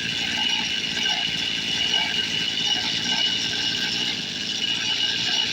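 Go-Ped Sport's small two-stroke engine running steadily at idle with a high, buzzy tone. The owner finds it bogging a little and running rich.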